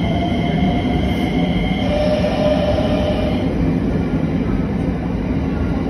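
Electric multiple-unit train moving along the platform: a steady rumble of wheels on rails with whining tones on top. The higher tones die away about three seconds in.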